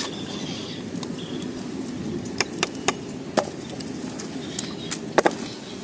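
A blade chopping wood: a handful of sharp, irregular knocks, two loud ones close together near the end, over a steady low rushing background.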